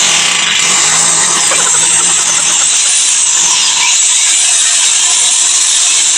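Power drill running continuously under load, starting abruptly and holding a steady, loud, high-pitched whir.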